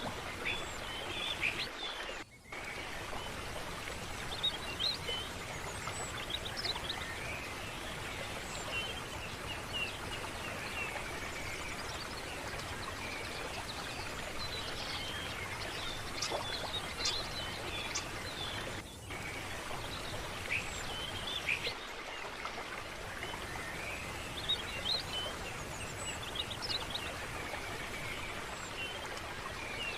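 Many small birds chirping over a steady rush of flowing water. The sound briefly drops out about two seconds in.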